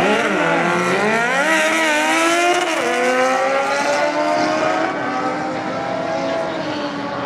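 Drag-racing motorcycle engine at full throttle accelerating down the strip, its pitch climbing, dropping sharply at a gear shift about three seconds in, then climbing again. It settles and fades a little near the end.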